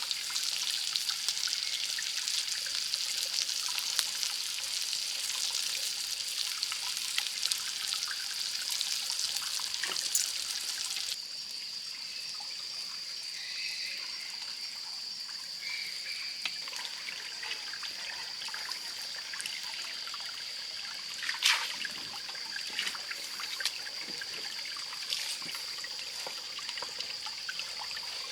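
Water trickling and dripping, with a steady high-pitched drone over it. The hiss drops suddenly about eleven seconds in, and a single sharp click stands out about three quarters of the way through.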